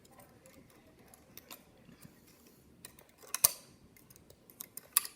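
Light clicks and taps from handling a Singer 20-10 Sewhandy toy sewing machine, with a sharper clack about three and a half seconds in and another near the end.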